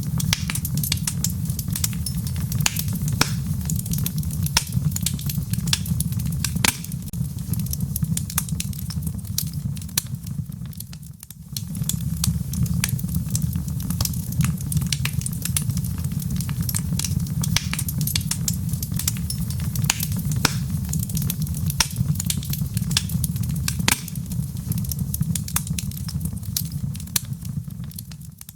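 Wood fire burning in a fireplace: a steady low rumble of flames with frequent sharp crackles and pops, dipping briefly about eleven seconds in.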